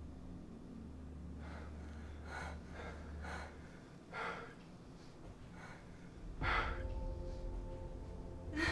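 A person breathing heavily, with soft gasping breaths about once a second. About two-thirds of the way in, a low rumble and sustained steady tones swell in beneath the breathing.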